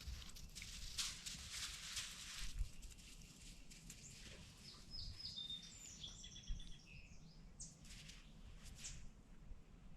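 Songbirds calling faintly: short high chirps and, in the middle, a run of quick repeated high notes.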